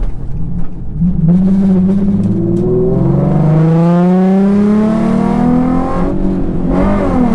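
Nissan VQ35HR V6 engine under hard acceleration. The revs drop briefly about a second in, then climb steadily for several seconds before falling away at a gear change near the end, pulling hard enough to spin the rear tyres on a wet road in third gear.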